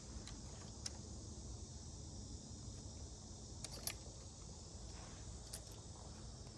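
Steady high-pitched chirring of crickets or similar insects, with a few light clicks, the loudest about four seconds in.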